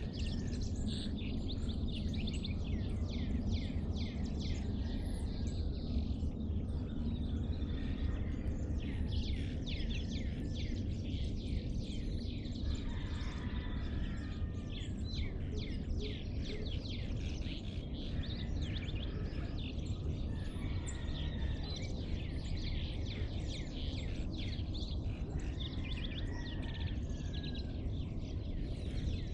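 Dawn chorus of many birds chirping rapidly and continuously, over a steady low rumble.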